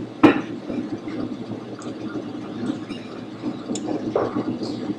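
Steady airliner engine and cabin drone during a landing approach, with a short knock just after the start.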